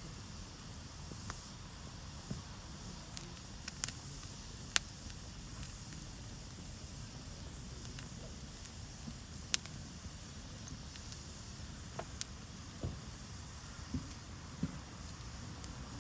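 Wood campfire burning with a steady hiss and scattered sharp crackles and pops, the loudest about five and nine and a half seconds in.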